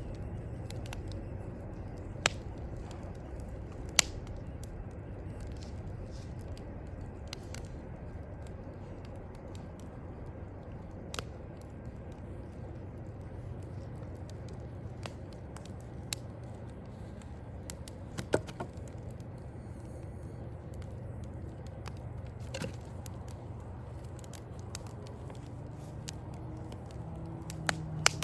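Wood fire crackling, with a sharp pop every few seconds over a steady low rumble of distant city traffic.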